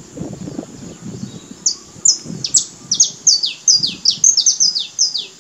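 A songbird singing a quick series of high whistled notes, each sliding steeply downward, about three a second, starting a couple of seconds in.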